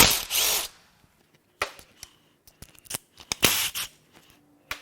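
Engine dipstick being pulled from its tube on a bare 4.6L DOHC V8: two short metal-on-metal scraping slides, one at the start and one about three and a half seconds in, with sharp clicks and taps between them.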